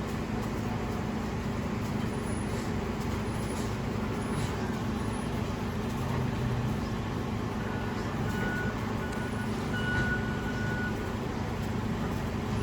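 Garbage truck engine running steadily with a low, even hum.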